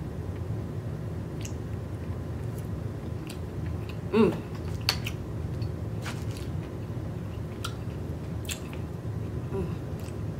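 A person chewing a mouthful of oyster close to the microphone: scattered wet mouth clicks and smacks over a steady low hum, with a brief voiced hum about four seconds in.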